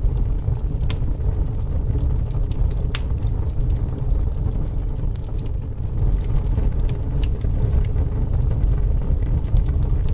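Campfire crackling, with a few sharp pops over a steady low rumble.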